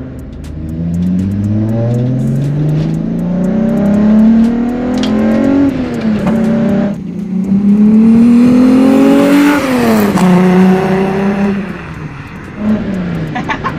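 Volkswagen Corrado's 2.8-litre VR6 engine accelerating hard through the gears. The revs climb, drop at a shift about six seconds in, climb again and drop at a second shift about ten seconds in, then hold steady.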